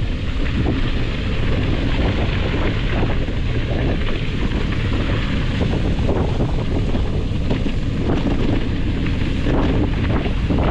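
Wind noise on the microphone: a steady, heavy rumbling hiss with no let-up.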